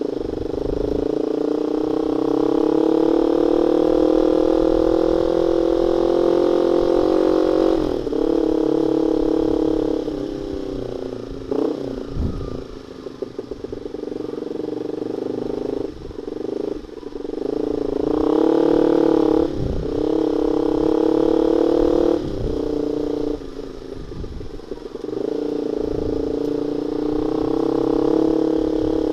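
Honda Sonic 150R single-cylinder engine running through a CLD X Monster half-baffle aftermarket exhaust. The note holds steady, falls off in the middle with a few sharp crackles, then climbs back up and holds again.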